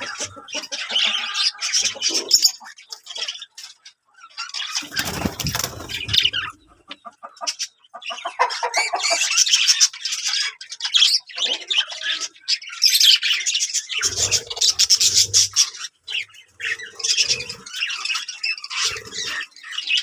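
A flock of budgerigars chattering, chirping and squawking in rapid overlapping bursts, with a brief noisy rustle about five seconds in.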